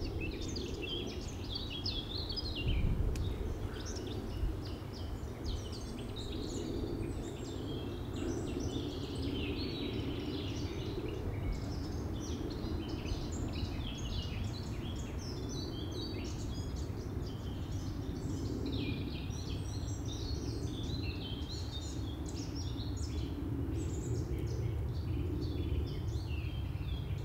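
Wild songbirds singing in a busy chorus of short chirps and trills, over a steady low background rumble.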